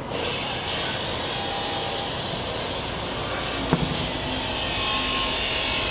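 Construction-site machine noise: a steady high hiss that starts abruptly and grows louder about two-thirds through, over a low rumble, with a single sharp knock partway in.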